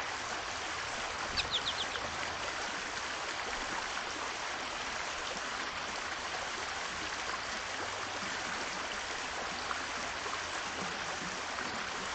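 A small bird gives a quick run of four short, high chirps about a second and a half in, over a steady rushing hiss.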